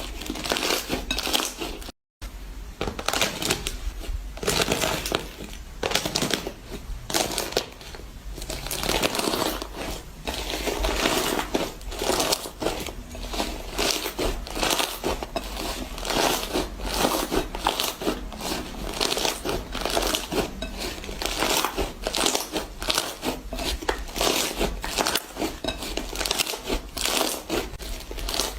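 Fast, dense crackling and crinkling of a crunchy material being squeezed and crushed. It cuts out for a moment about two seconds in.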